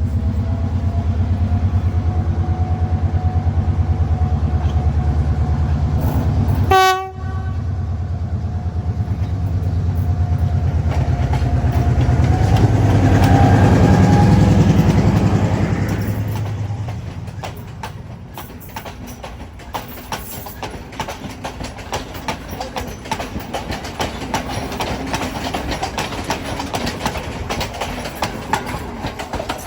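Diesel passenger train running on the line. For the first half a heavy engine drone dominates, with one short sharp sound about seven seconds in. The drone builds, then fades out about two-thirds of the way through, leaving a fast clatter of wheels over the rail joints.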